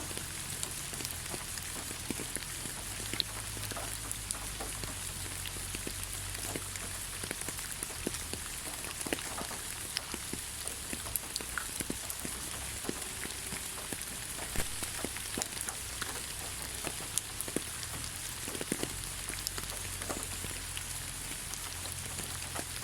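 Steady rain falling on leaves: an even hiss with many scattered, irregular drop taps.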